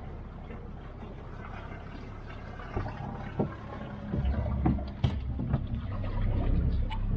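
Small duck-shaped rental boat under way on a river: a steady low hum that grows louder about four seconds in, with a few short knocks.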